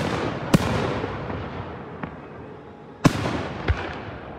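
Aerial firework shells bursting: a string of sharp booms, the loudest about three seconds in, each trailing off in a long rolling echo.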